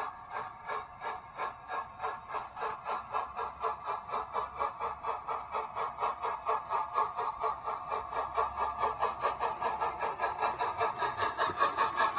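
00 gauge model train running on the layout, making an even rhythmic beat of about four a second that quickens to about six a second and grows louder.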